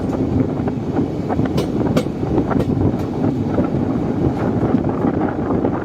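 Train running on the track: a steady rumble with scattered sharp clicks of wheels over the rails.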